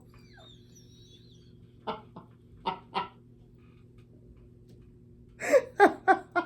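A woman laughing in short bursts: a few quiet laughs about two seconds in, then a louder run of laughs near the end, over a steady low hum.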